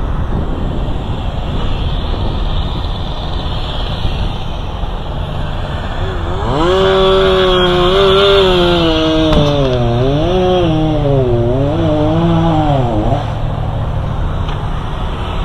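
A chainsaw revs hard for about six seconds, starting about six seconds in, its pitch dipping and rising several times, over a steady rumble of wind noise.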